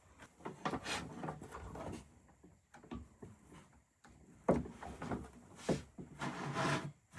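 Scattered light knocks and rubbing as things are handled and set down against wood, with two sharper knocks in the second half.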